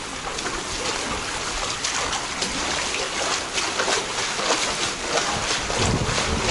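Floodwater splashing and lapping over a steady wash of water noise, with short splashes about twice a second.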